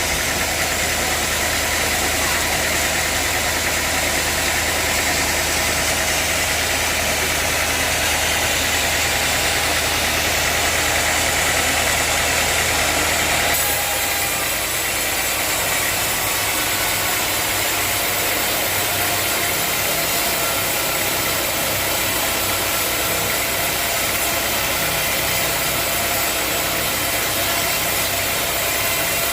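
Sawmill machinery running steadily, a constant mechanical drone with a dense high hiss over a low hum. About halfway through, the low hum drops away and the sound changes.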